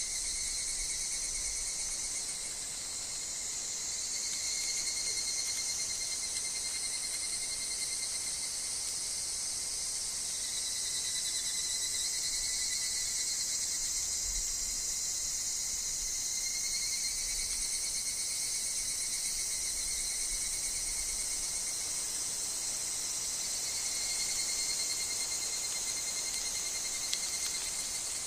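Continuous chorus of higurashi (evening cicadas) and other insects in woodland: a steady high shrill with layered pulsing trills that swell and fade every few seconds.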